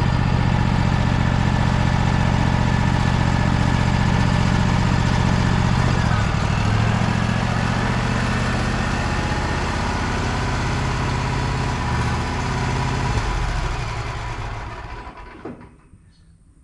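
Wood-Mizer portable sawmill's engine running steadily. Its note shifts about six seconds in, then it winds down and stops near the end.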